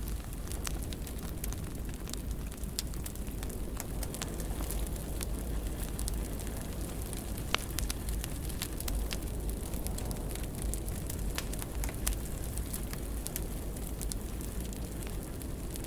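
Wood fire burning in a fireplace: a steady low rumble and hiss with sharp crackles and pops scattered irregularly throughout, one louder pop about halfway through.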